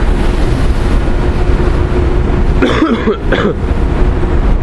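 Gusty wind rumbling on the microphone over the steady running noise of a car ferry crossing rough water. About three seconds in, a short voice sound cuts in briefly.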